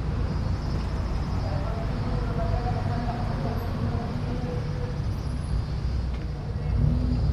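Car engines rumbling low and steadily as cars roll out of a meet, growing louder near the end, with people talking faintly over them.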